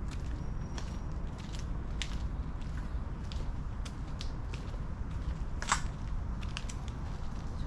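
Footsteps of someone walking on pavement, faint clicking steps at about two a second over a steady low rumble, with one sharper click just under six seconds in.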